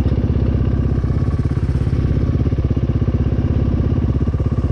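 Dirt bike engine idling steadily, an even, fast chugging with no revving.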